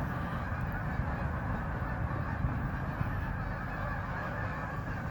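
A large flock of Canada geese honking, many overlapping calls blending into a steady chorus.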